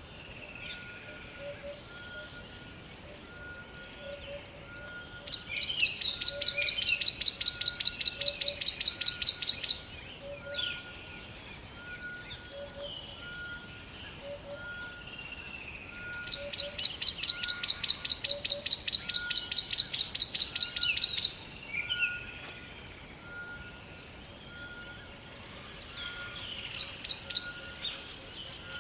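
Forest birds calling, with scattered high chirps and a soft note repeating at an even pace. Twice, a loud rapid trill of many quick pulses runs for about four to five seconds: once about five seconds in and again after about sixteen seconds.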